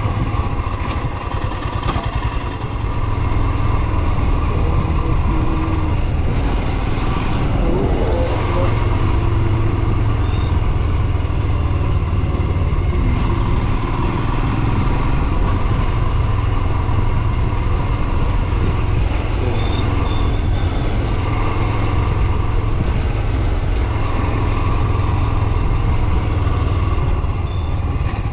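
Royal Enfield Himalayan 411's single-cylinder engine running steadily while the motorcycle is ridden.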